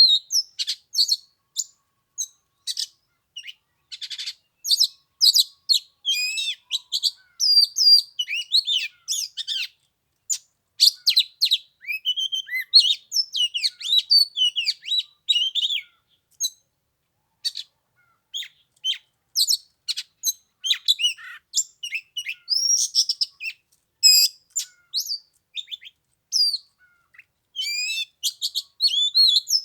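Oriental magpie-robin singing: a long run of quick, varied whistles and chirps, high-pitched, broken by a few short pauses.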